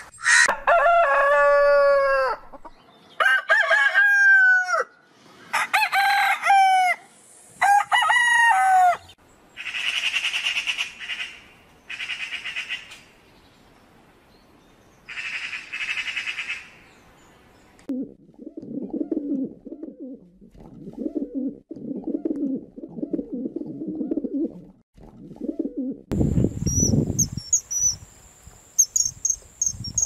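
A run of different bird sounds: first four loud calls, each gliding down in pitch; then three bursts of harsh, rattling chatter from a Eurasian magpie; then several seconds of low, rapid repeated notes. Near the end a high, fast, insect-like chirping comes in.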